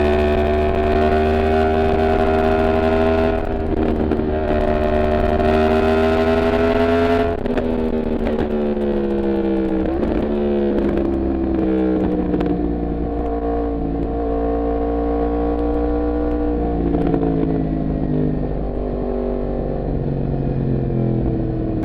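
Yamaha MT-10's crossplane inline-four running under steady throttle for about seven seconds, then rolling off so the engine note drops suddenly and keeps falling in stages as the bike slows. Low wind rumble on the microphone throughout.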